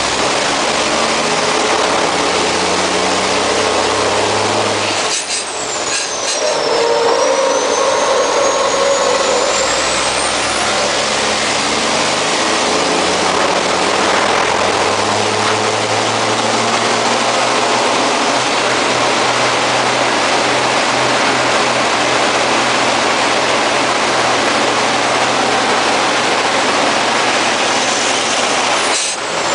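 MAN race truck's diesel engine running hard, heard from inside the cab, with a dense rush of noise over it. About five seconds in, and again near the end, the sound dips briefly and a high whistle falls and then climbs again.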